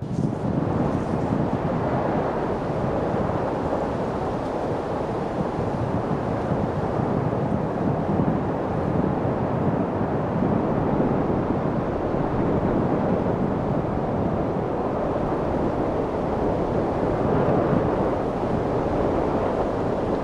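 Steady wind, an even rushing noise that swells and eases only slightly.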